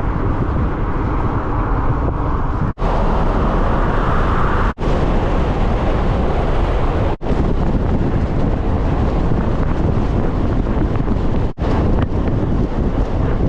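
A pickup truck driving, with steady road noise and wind rush on the microphone. The noise drops out abruptly for an instant four times.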